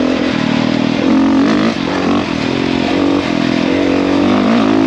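450cc dirt bike's single-cylinder four-stroke engine running under throttle, its pitch rising and falling several times as the rider gets on and off the gas.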